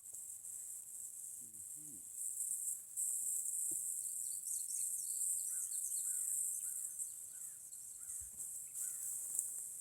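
Steady high-pitched insect chorus, growing louder about three seconds in, with a bird chirping a run of short notes in the middle.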